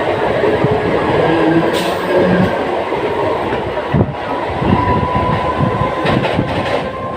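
Mumbai suburban electric local train running, heard from inside a non-AC coach: a loud, steady rumble of wheels on track with short knocks over rail joints, the clearest about four seconds in.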